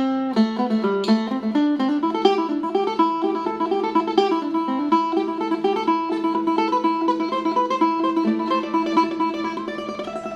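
Phin, the Isan plucked lute, playing a quick run of lam phloen melody notes over steady drone notes.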